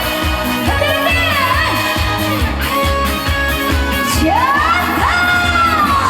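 Instrumental intro of an upbeat Korean trot song played live over a loud PA system: a lead melody over a steady beat, with a long upward slide about four seconds in that then eases slowly down.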